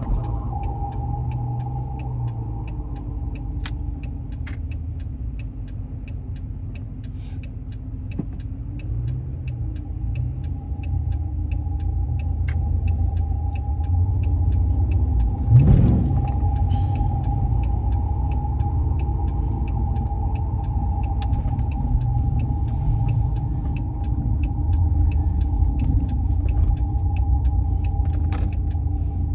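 Ex-police Dodge Charger's engine and exhaust running as the car drives at low speed, heard from inside the cabin: a steady low rumble that grows louder about a third of the way in, with a brief rev rising in pitch about halfway.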